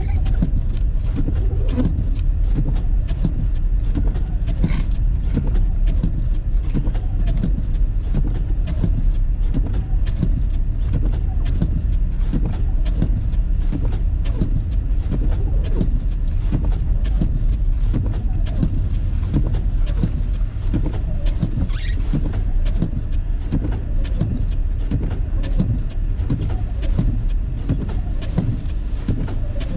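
Car driving on a snow-covered road, heard from inside the cabin: a steady low rumble from the engine and tyres with a constant, irregular crackle.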